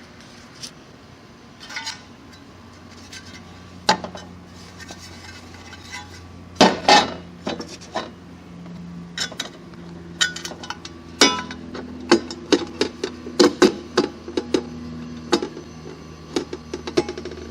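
Irregular sharp metallic clicks and clinks of tools and metal parts being handled. They are sparse at first and come thick and fast in the second half, and some strikes ring briefly, over a faint steady low hum.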